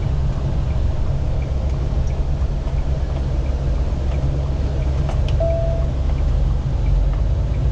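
Steady low rumble of an International LT semi truck's diesel engine running, heard from inside the cab. A short steady tone sounds for about half a second around five seconds in.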